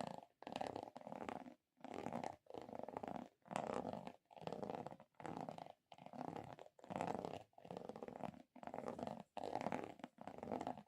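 ASMR object-handling sounds: a steady run of soft, evenly paced squishing strokes, about one every 0.8 seconds with brief silences between.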